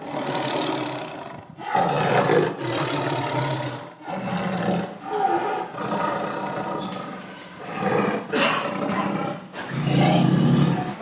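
An animal roaring: about seven long, loud roars one after another, with short breaks between them.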